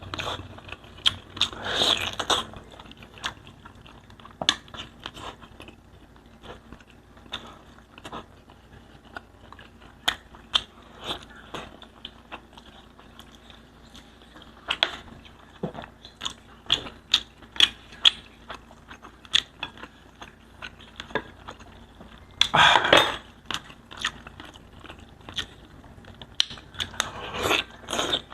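Close-miked eating of spicy grilled pork belly (liempo): biting and chewing, with many sharp wet mouth clicks and a few louder crunchy bites.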